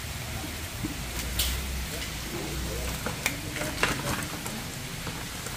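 Rain falling, a steady hiss with a low rumble under it, with faint voices in the background and a few sharp clicks and knocks, the loudest about one and a half and four seconds in.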